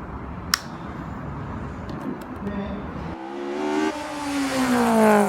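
A sharp click about half a second in over a steady hiss, then, about three seconds in, an engine revving up with its pitch rising steadily and getting louder.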